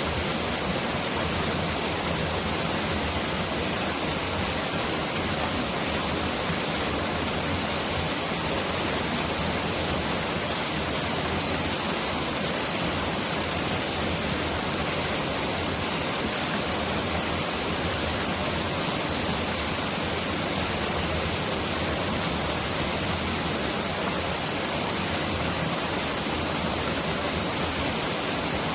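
Mountain valley stream rushing steadily, an even, unbroken hiss of flowing water that sounds like heavy rain.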